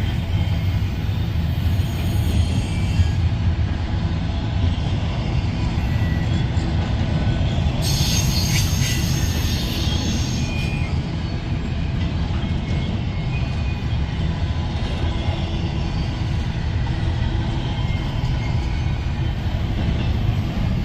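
Train rolling past at close range: a steady low rumble of wheels on rail, with a high-pitched wheel squeal for about two seconds near the middle.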